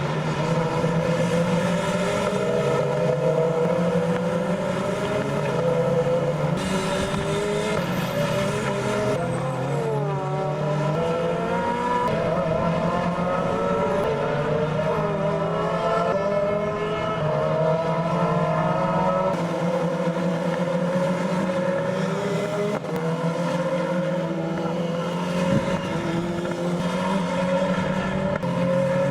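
Renault Clio Cup race cars' engines running hard on track, their pitch repeatedly climbing and dropping through gear changes, with more than one car heard at once.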